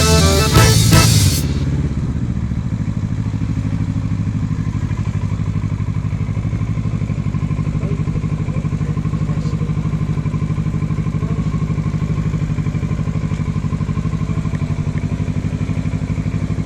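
Motorcycle engine running steadily at an even, unchanging speed, a low pulsing hum. A music track cuts off about a second and a half in.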